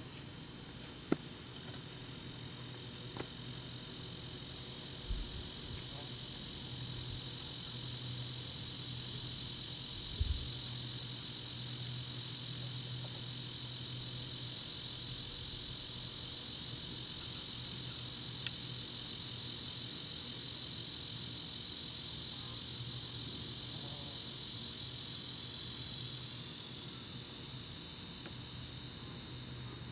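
Steady high-pitched chorus of insects buzzing, swelling after the first few seconds and then holding, with a few faint clicks.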